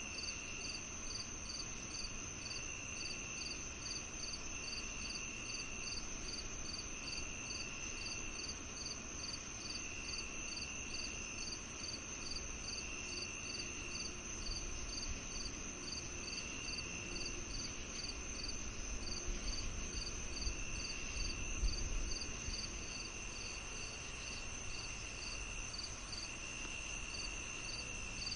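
Evening chorus of crickets and other insects: a steady high trill, regular chirps a little over two a second, and a lower trill that starts and stops every couple of seconds, over a faint low rumble.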